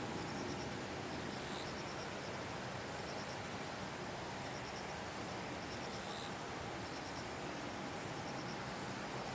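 Insects chirping: short high trills repeating every second or so over a fast, steady high-pitched pulsing, with faint background hiss.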